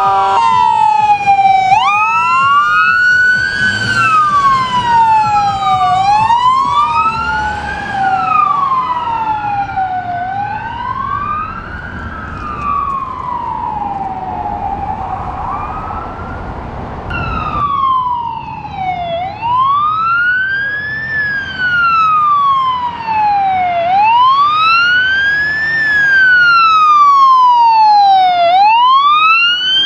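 Emergency vehicle sirens in a slow wail, rising and falling about every four to five seconds. For the first half, two sirens wail out of step with each other; about 18 seconds in the sound cuts to a single louder wail.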